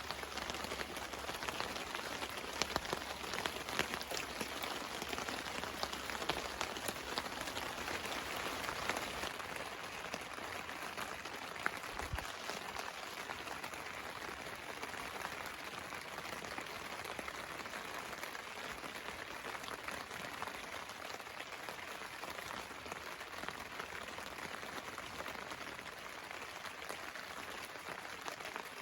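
Steady rain pattering on a tarp, with scattered sharp drop ticks that are busier in the first half.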